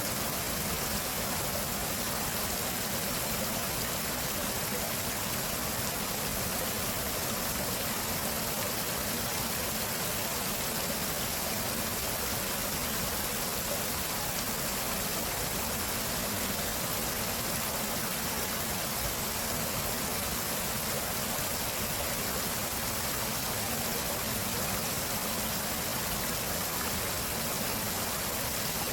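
Stream water flowing: a steady, even rush of running water that does not change.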